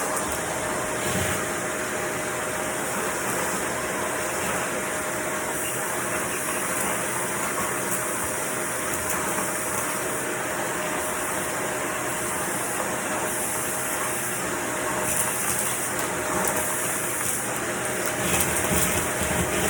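Vacuum cleaner running steadily: a constant rush of air with a steady motor whine, swelling slightly near the end.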